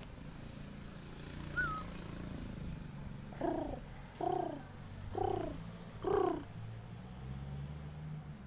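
Zebra dove giving four short cooing calls about a second apart, each dipping slightly in pitch. A brief high chirp comes earlier.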